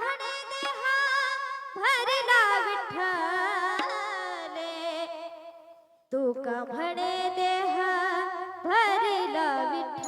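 A woman singing a Marathi devotional abhang, drawing out long ornamented notes with wavering pitch before the refrain's words, over steady held tones. The sound breaks off to silence for a moment about six seconds in, then resumes.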